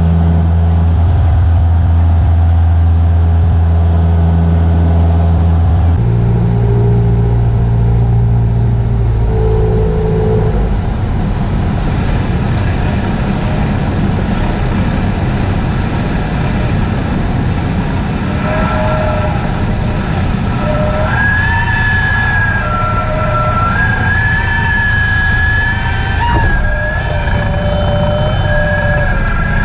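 Cessna 172's piston engine and propeller droning in the cabin; the drone's pitch shifts at about 6 s and gives way to a rough low rumble at about 10 s. From about 18 s a tune of held, stepping notes plays over the rumble.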